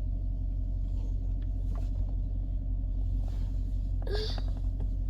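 Steady low rumble of a car driving slowly, heard inside the cabin, with a brief short voice sound about four seconds in.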